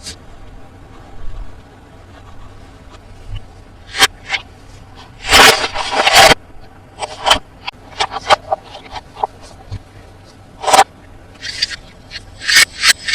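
Toy packaging being handled and opened: short rustles, scrapes and clicks of cardboard and plastic, the loudest a rustle of about a second around five seconds in, with quick clusters of clicks near the end.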